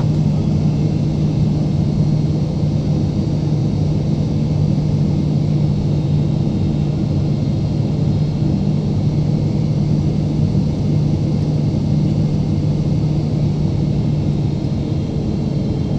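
Steady drone of a Boeing 777-300ER's GE90 engines and airflow heard inside the cabin, with a constant low hum and no change in pitch.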